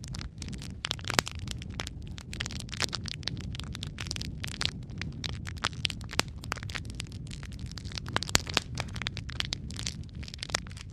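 Wood fire burning in a fireplace, crackling steadily over a low rumble, with frequent sharp pops at irregular intervals; the loudest pops come about a second in and just over eight seconds in.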